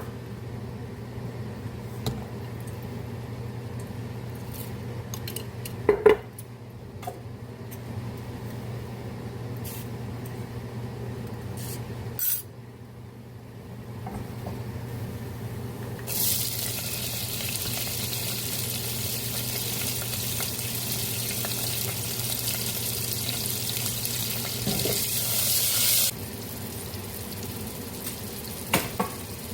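Kitchen tap running for about ten seconds, starting about halfway through and cutting off sharply, over a steady low hum. There are a few short knocks and clinks earlier.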